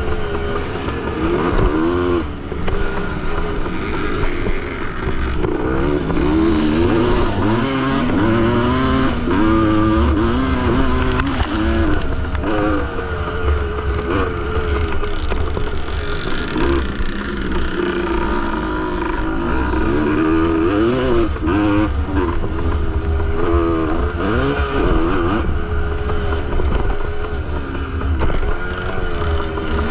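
Two-stroke single-cylinder engine of a 1973 Yamaha MX250 motocross bike racing, its pitch rising and falling again and again as the throttle opens and shuts through the gears.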